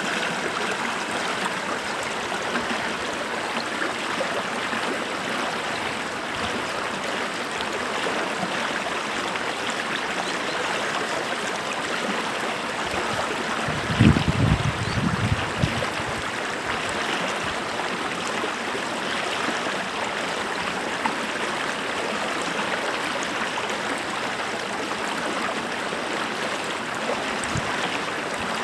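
A creek running steadily over rocks, an even rushing and trickling of water. About halfway through there is a brief low rumble, the loudest moment.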